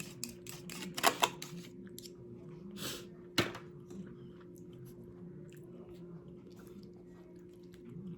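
Close-up chewing and crunching of nacho chips, with a few sharp clicks about a second in and again near three and a half seconds. A steady low hum runs underneath.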